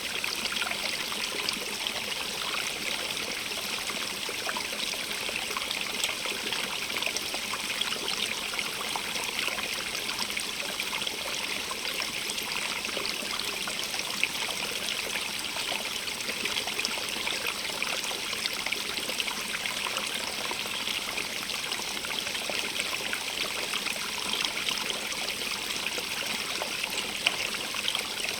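Small stream running steadily over stones, a constant splashing trickle with its strongest sound high and hissy, recorded binaurally.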